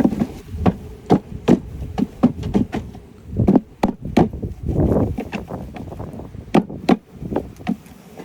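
An uneven series of wooden knocks and thumps, some sharp and some dull: a wooden bee package being banged and shaken to drop the bees into the hive.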